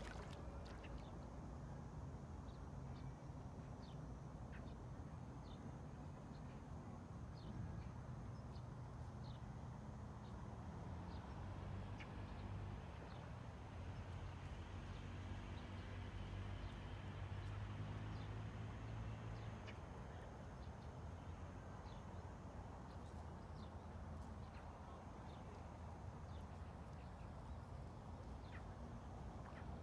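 Faint ambient field recording: a low steady rumble, a little louder for a stretch in the middle, with short, high ticks scattered throughout.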